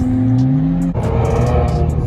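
A car engine revving, its pitch climbing over the first second, then changing suddenly to a rougher, lower note about a second in.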